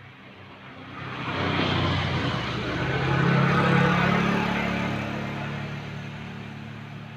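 A motor vehicle passing by: its engine and road noise swell from about a second in, peak midway, then slowly fade away.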